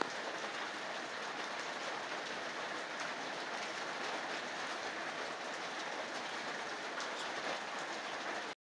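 Heavy rain falling: a steady, even hiss that cuts off suddenly near the end.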